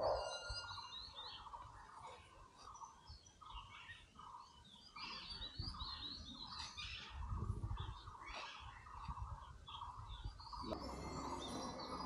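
Wild birds calling: a steady run of short mid-pitched notes about two a second, with higher chirps and twitters over it and a low rumble underneath.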